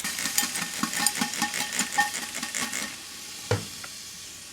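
Crackling, sizzling noise thick with small clicks for about three seconds, from the burnt-out remains of a fountain firework inside a microwave. It eases into a steady hiss, with a single thump about three and a half seconds in.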